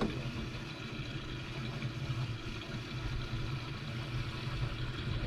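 Fishing boat's motor running steadily with a low hum, with wind and water noise around it.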